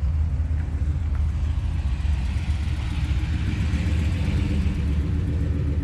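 Classic car engine idling, a steady low rumble with a slightly uneven pulse.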